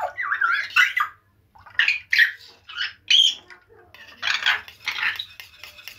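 Pet birds calling in the background: a series of short calls, some sweeping quickly in pitch.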